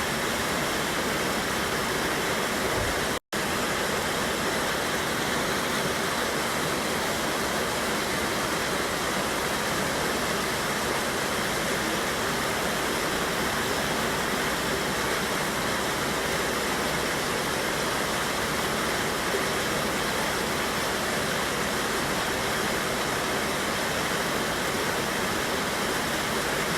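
River water rushing steadily over a waterfall, a constant full rushing noise. It cuts out for an instant about three seconds in.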